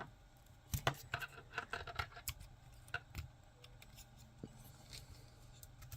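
Faint, irregular clicks and light scraping of 3D-printed plastic parts being rotated and unclipped by hand, bunched in the first three seconds and sparser after.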